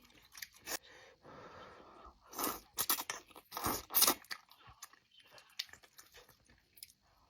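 Close-up eating sounds: a person chewing and crunching food in the mouth right at the microphone. A soft hiss comes first, then a run of loud crunching bites a couple of seconds in, then quieter chewing.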